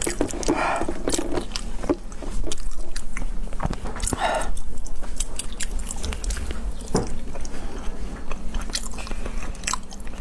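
Close-miked chewing and biting of raw salmon sashimi dipped in soy sauce, full of short mouth clicks all through.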